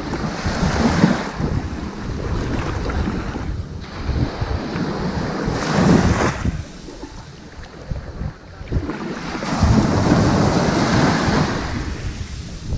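Ocean waves breaking and washing up onto a sandy beach, a hiss that swells and fades three times, with a lull in between.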